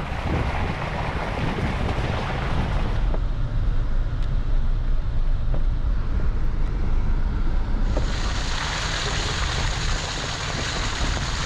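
Jeep driving along a rough forest trail: a steady low engine rumble with tyre and wind noise. About eight seconds in a louder hiss joins the rumble.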